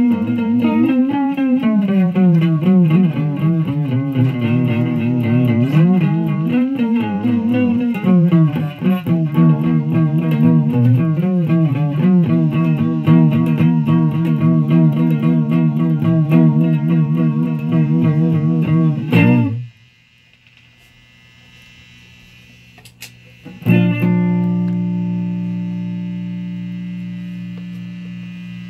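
Electric guitar played through a Fuzz Face fuzz pedal running on a nearly dead battery, a distorted fuzz tone that sounds horrible. Bent and wavering notes are played for about nineteen seconds and then cut off suddenly; after a short pause a single chord rings out and slowly fades.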